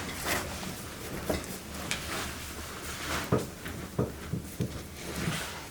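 Irregular soft knocks, clicks and rustles of things being handled, about a dozen over a few seconds, typical of someone rummaging for dry socks.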